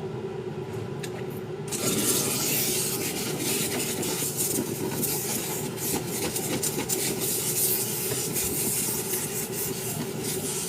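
Rapid scrubbing strokes, starting about two seconds in and going on steadily, typical of a brush worked against a sneaker during cleaning.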